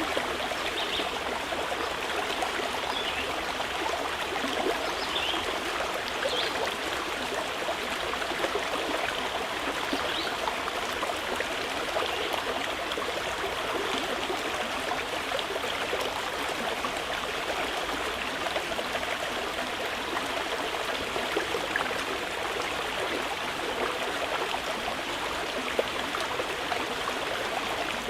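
Mountain river flowing steadily, an even rush of water over stones. A few faint, brief high bird chirps come through in the first third.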